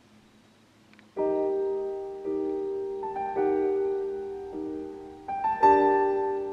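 Slow solo piano music: after a faint hum for about a second, sustained chords are struck about once a second, each fading before the next.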